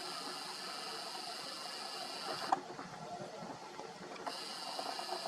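Camera lens motor whirring, picked up by the camera's own microphone: a steady whine for about two and a half seconds that stops with a click, then again for about a second near the end, ending with another click.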